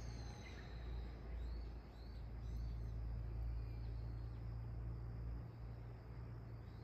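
Faint bird chirps, short rising-and-falling notes repeated every half second or so, over a low steady rumble.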